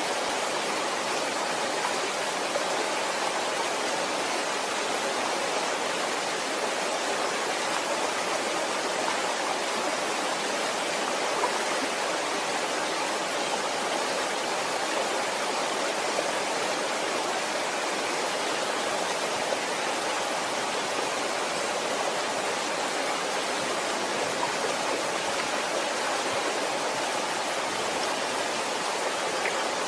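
Waterfall: falling water rushing in a steady, unchanging roar.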